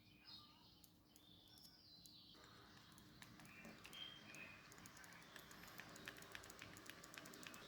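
Near silence, with faint bird chirps and scattered light ticks.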